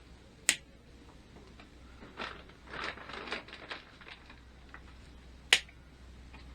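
Two sharp clicks about five seconds apart, with a run of short scraping and handling noises between them, over a steady low hum.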